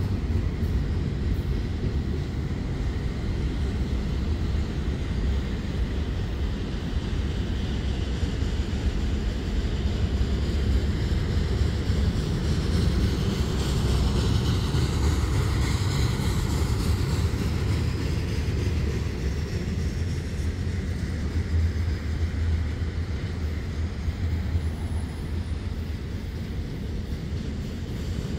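Double-stack container train rolling past close by: a steady heavy rumble of steel wheels on rail with rattling from the well cars, louder for a few seconds around the middle.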